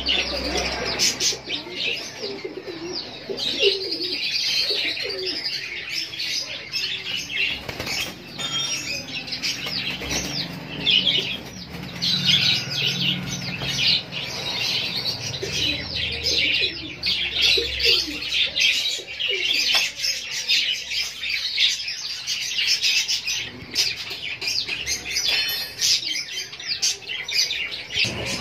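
A flock of caged birds: dense, continuous high chirping from lovebirds, pigeons cooing low underneath, and bursts of wing flapping.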